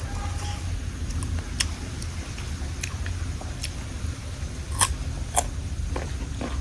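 Crunchy biting and chewing of raw fruit: a scattered run of sharp crunches, the loudest near the end, over a steady low rumble.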